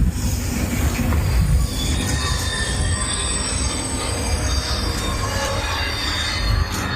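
Loud, steady rumbling with high metallic squealing like rail wheels, the squeal strongest in the middle of the stretch.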